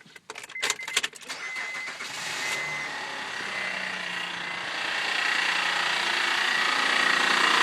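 2007 Honda Pilot's 3.5-litre V6 started cold: about a second of clicking and cranking, then it catches and runs. A hissing, whirring noise grows steadily louder over it; the owner places it near the timing belt, and it fades as the engine warms.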